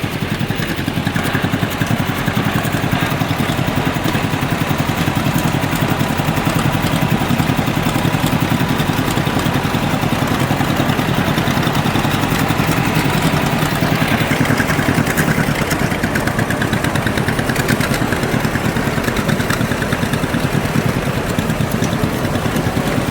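Tractor engine running steadily at a low, even speed, heard from aboard as the tractor drives along.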